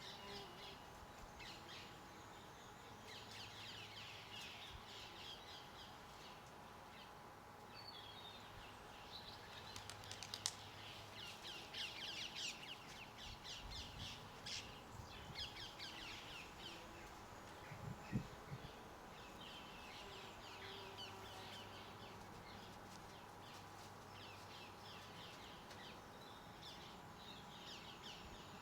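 Garden birds chirping and twittering, faint and busy, with many overlapping short calls, most dense about midway. A brief low thump comes about 18 seconds in.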